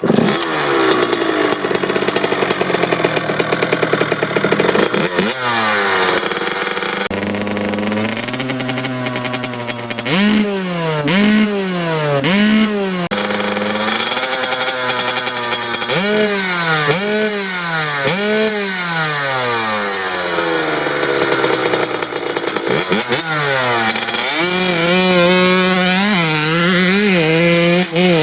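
Kawasaki KX80 two-stroke dirt bike engine with a DEP S2 silencer, running and revved again and again: quick throttle blips whose pitch shoots up and drops back to idle. The blips come in rapid series around the middle and again near the end.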